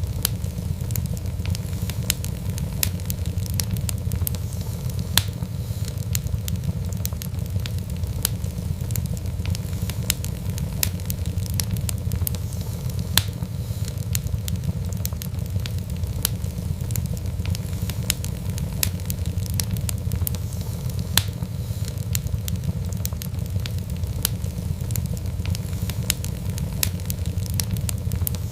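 Fireplace fire crackling, with frequent sharp pops and snaps at irregular moments over a steady low rumble of flame.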